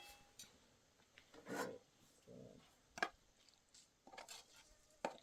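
A few faint, short scrapes, irregularly spaced, with quiet between them.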